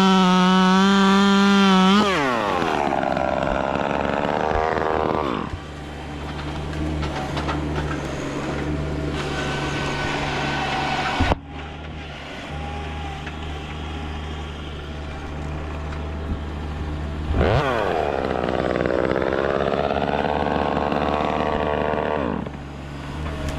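Chainsaw at full throttle that lets off and winds down to idle after about two seconds. It idles steadily, then is revved up again for about five seconds near the end, its pitch wavering, before dropping back to idle.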